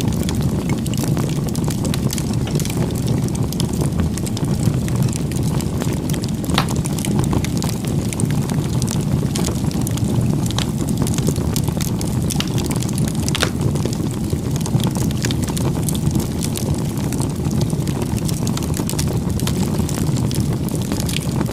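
Bonfire burning: a steady low rush of flames with scattered sharp crackles and pops of burning wood.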